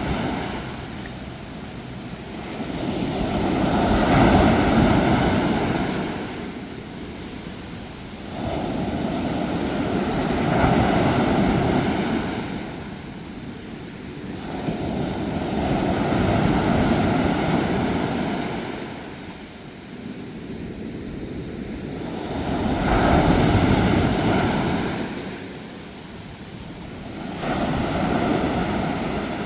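Sea waves breaking and washing up a shore, swelling and falling away about once every six seconds, five times over.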